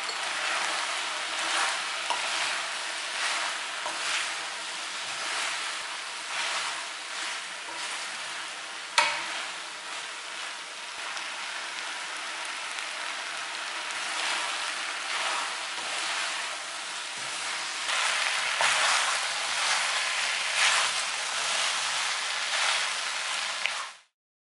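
Boneless chicken feet in a red chili sauce sizzling in a wok as they are stir-fried, with repeated scraping strokes as they are stirred and one sharp clack about nine seconds in. The sizzling cuts off shortly before the end.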